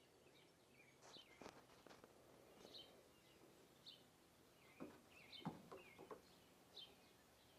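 Small birds chirping faintly, short high chirps every second or so, with two clusters of sharp clicks or taps, the loudest about five and a half seconds in.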